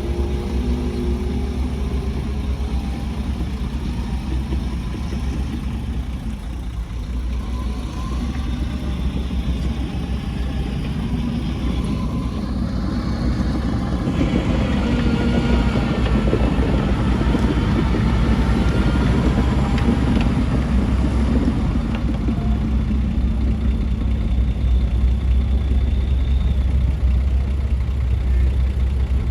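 Diesel engine of heavy earthmoving machinery running under load, a deep steady rumble that grows a little louder about halfway through.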